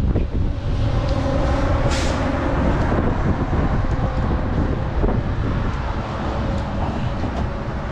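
A large vehicle's engine running steadily, with a short hiss about two seconds in.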